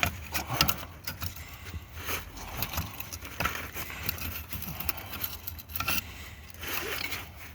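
Tools and small metal parts being handled around an engine: irregular light metallic clinks and scrapes.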